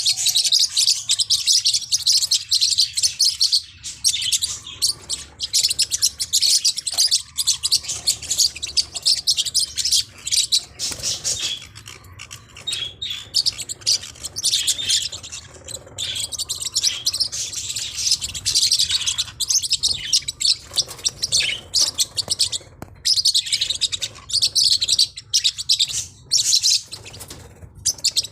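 Forpus parrotlets chirping in fast, high-pitched, continuous chatter, with short dips and no real pause.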